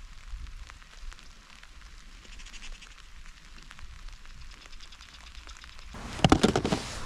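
Rain falling, with many separate drops ticking close by over a steady hiss. About six seconds in, a sudden louder burst of noisy rustling and knocking covers the rain.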